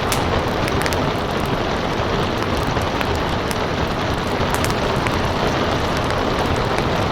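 Steady rain hiss with the irregular sharp pops and crackles of a wood fire burning in a fireplace.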